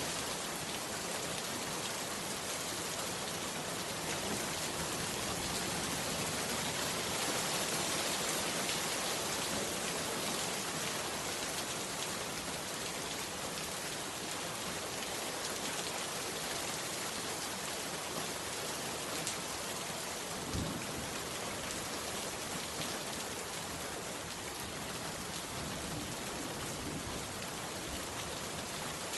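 Heavy rain pouring steadily, a dense, even hiss of rain on surfaces, with one brief low thud about two-thirds of the way through.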